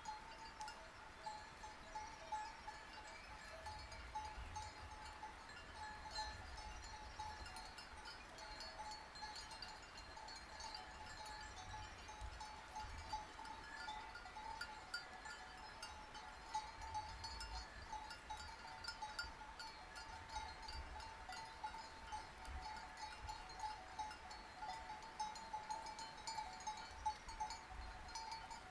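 Sheep bells on a flock clinking and clanking continuously and unevenly, several bells ringing at once.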